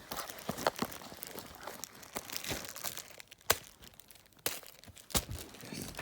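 Crinkling and rustling of something being handled, with scattered sharp clicks and knocks; the sharpest click comes about three and a half seconds in.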